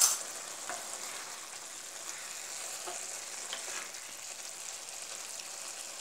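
Urad dal and radish-leaf sabzi sizzling steadily in a kadhai over a high gas flame as it is dry-fried, with a spatula stirring and scraping it. A sharp knock of the spatula against the pan comes at the very start, and there are a few light taps after it.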